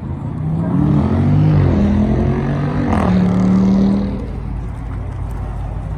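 A car engine accelerating, its pitch climbing and then dropping sharply at a gear change about three seconds in, holding steady briefly, then fading after about four seconds.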